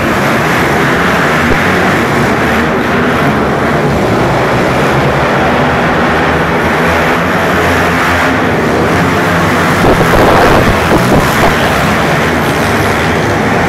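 Several four-stroke mini bike engines racing together, a steady mixed drone of revving engines, with a few louder moments about ten seconds in.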